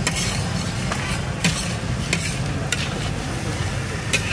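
Mutton liver masala sizzling on a large iron tawa as a steel spatula stirs and scrapes across it, with a sharp clink of metal on metal every second or so. A steady low rumble runs underneath.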